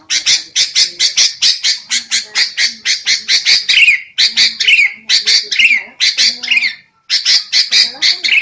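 Sooty-headed bulbul (kutilang) giving rapid, harsh scolding chatter: several calls a second in bursts with short gaps, some bursts ending in a quick falling note. These are the agitated 'ribut' calls used as a lure for wild bulbuls.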